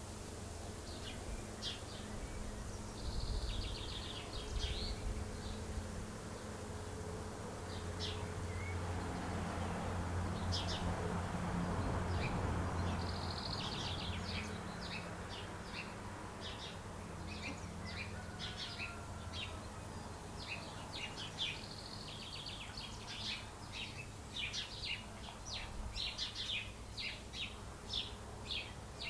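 A group of small birds chirping in many short, quick notes, busiest in the second half, over a steady low hum. A soft rushing swell of noise rises and fades around the middle.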